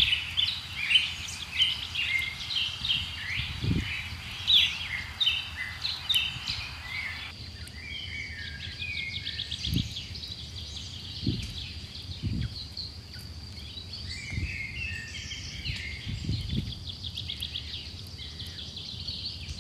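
Several birds chirping and trilling over one another, with a faint steady high tone and a background hiss that drops away about seven seconds in. A few soft low thuds are heard among the calls.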